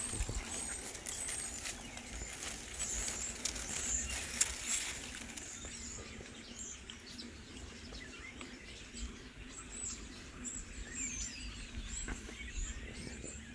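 Small birds chirping repeatedly in short high calls. There is rustling and bumping from handling, heaviest in the first few seconds.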